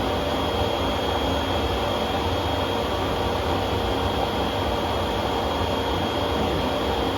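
Eureka upright vacuum cleaner's 12-amp motor running steadily, a constant rushing noise with a thin steady high whine over it.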